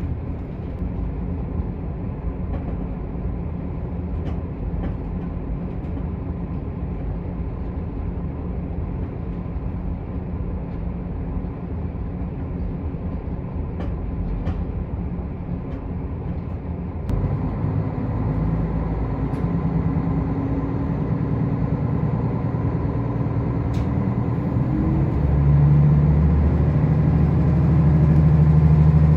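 Diesel railcar running on the line, heard from inside the car as a steady rumble. About two-thirds of the way through, the engine comes on with a steady drone that grows louder again near the end as it takes more power.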